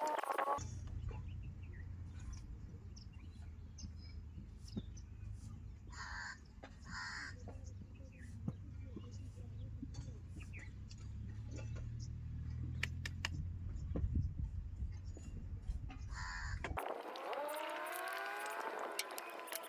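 Steady low engine rumble, with a crow cawing a few times, about six and seven seconds in and again near the end, over scattered small clicks.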